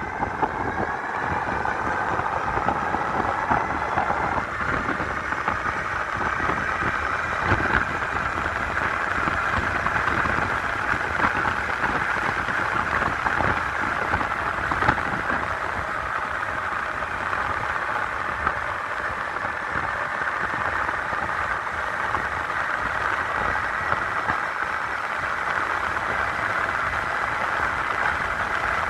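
Motors of a 5,000-watt dual-motor electric bike whining under power, the pitch rising for the first several seconds as it speeds up and then holding steady at speed, over rumbling wind noise on the microphone.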